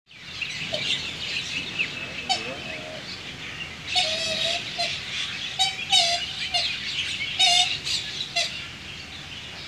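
Small birds chirping and trilling, several overlapping calls in quick rattling bursts that grow busier about four seconds in.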